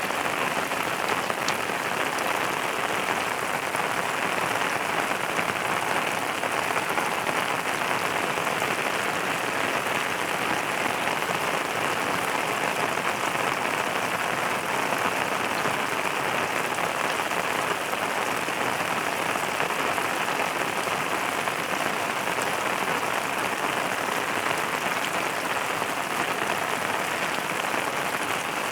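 Steady rain falling on a surface: a constant, dense patter with no change in strength.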